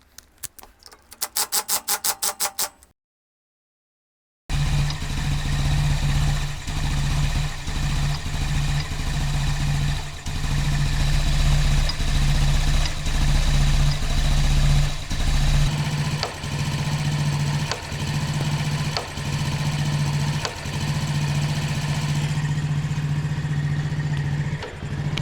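Daelim Citi Best CB115 single-cylinder four-stroke engine idling unevenly: its speed sags and picks up again every second or two, with faint sharp ticks through it. This is the 'woodpecker' tick and unstable idle that was traced to a missing adjusting screw on the throttle body. It is preceded by a brief rapid clatter.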